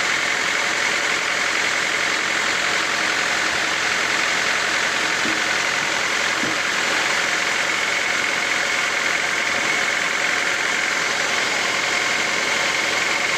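Sawmill machinery running steadily: a continuous mechanical drone with a constant high whine over it.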